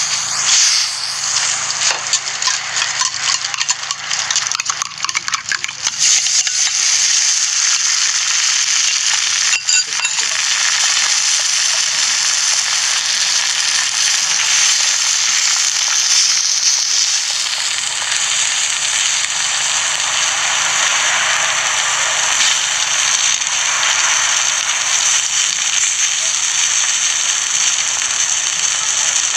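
Egg and shredded cabbage frying on a hot flat-top griddle, sizzling steadily. A run of clicks and clinks of metal utensils comes in the first several seconds.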